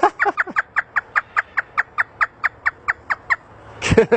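African grey parrot mimicking hysterical human laughter: a long run of quick, evenly spaced 'ha' notes, about five a second, for over three seconds, then a fresh burst of laughter near the end.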